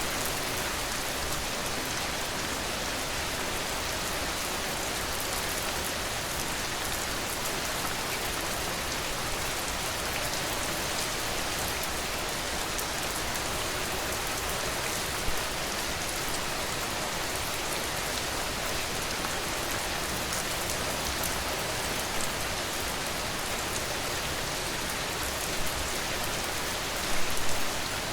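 Steady rain falling, an even hiss of many fine drops, with a few louder single drop hits now and then and a short cluster of them near the end.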